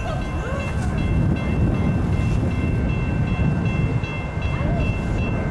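Low, steady rumble of an approaching commuter train on the BNSF line, with the crossing's warning bells ringing as steady high tones above it. A few short bird chirps come through.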